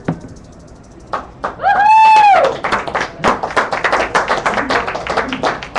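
A loud whistle about a second and a half in, rising and then falling in pitch, followed by a few people clapping quickly and unevenly: applause.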